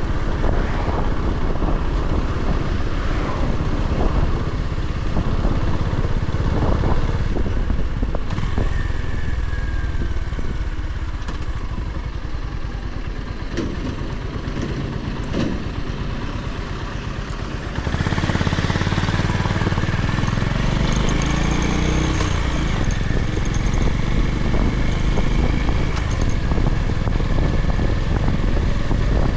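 Honda GB350's single-cylinder engine running under a rider on the road, with wind rushing over the microphone. The engine is quieter for a while in the middle, then about two-thirds of the way in it opens up suddenly and climbs in pitch as the bike accelerates.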